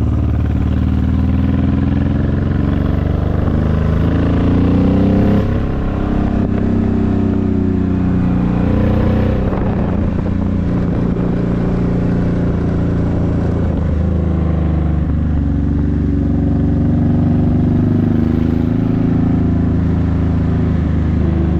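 A 2002 Honda VTX1800's 1800 cc V-twin engine running through Vance & Hines aftermarket pipes while riding. Its pitch climbs and falls several times as the throttle is opened and eased, with a brief drop about six seconds in.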